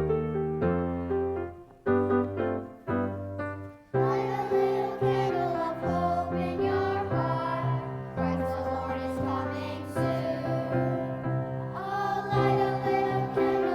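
Piano playing a short introduction of separate chords, then about four seconds in a children's choir starts singing with the piano accompanying.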